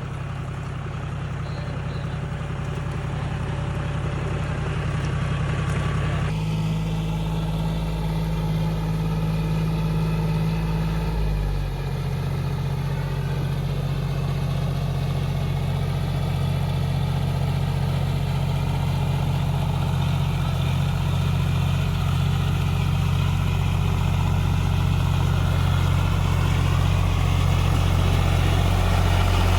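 Tractor's diesel engine running steadily, working a paddy field, growing gradually louder; its note drops slightly about twelve seconds in.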